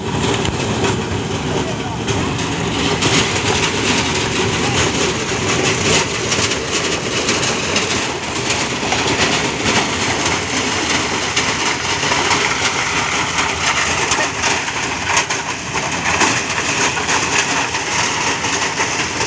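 Motorised corn thresher running steadily: a constant engine drone under dense rattling and clatter as the machine shells the corn.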